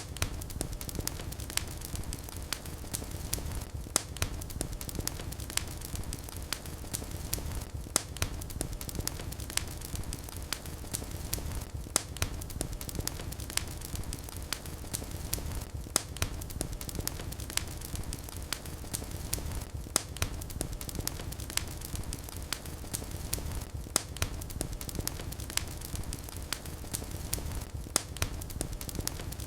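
Wood fire burning in a fireplace: a steady low rumble of the flames with constant crackling and sharp pops, the louder pops coming about every four seconds.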